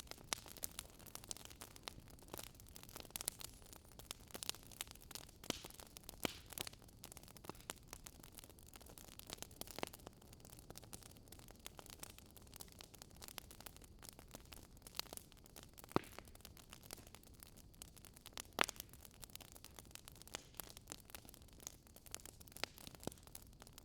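Fireplace crackling: irregular sharp pops and snaps over a faint steady hiss, with two louder pops in the second half.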